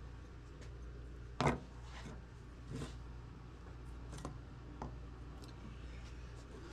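A few scattered clicks and light knocks of hands handling tools and the lantern's metal parts, over a steady low hum; the sharpest click comes about a second and a half in.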